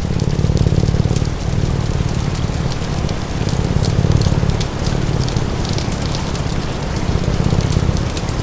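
A layered sleep-sounds mix: steady rain, a crackling fire with sharp pops, and a cat purring low underneath in swells that rise and fall every second or two with its breathing.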